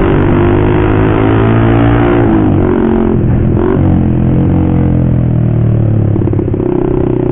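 Motorcycle with a loud aftermarket racing exhaust running while being ridden. The engine note drops about two seconds in as the throttle eases, then holds steady.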